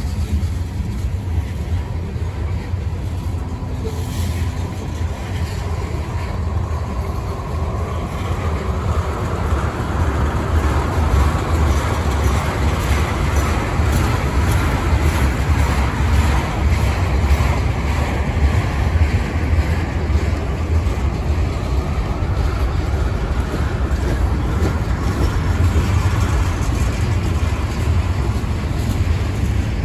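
Freight train rolling past: a steady low rumble of wheels on rail, with a broad rushing noise that swells about eight seconds in and stays loud.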